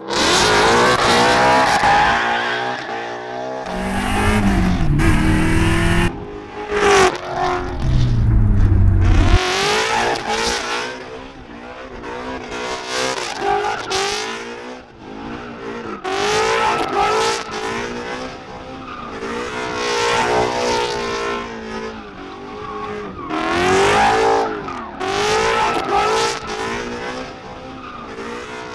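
Ford GT350R Voodoo 5.2-litre flat-plane-crank V8 in a 1963 Falcon Sprint, revving hard again and again. Its pitch climbs and drops back many times as the car accelerates and lifts off.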